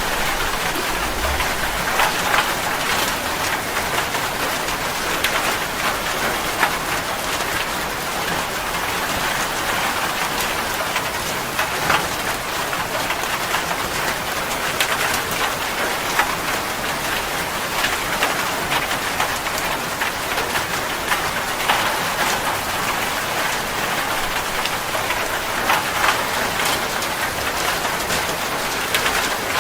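Steady heavy rain falling on surfaces, a continuous hiss with frequent individual drop splashes and patters.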